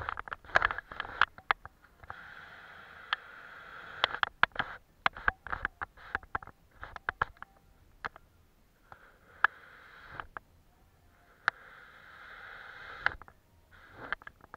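Paintbrush strokes brushing across paper, heard close up as stretches of soft scratchy hiss, with many sharp clicks and taps in between.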